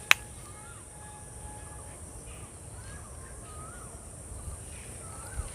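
Birds calling outdoors: short, arched whistled notes repeat every second or so over a steady high drone of insects. A single sharp click sounds just after the start.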